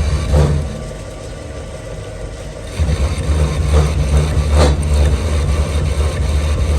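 Workshop machine running with a steady low hum that drops out for about two seconds near the start and then comes back, with a few brief scraping sounds over it.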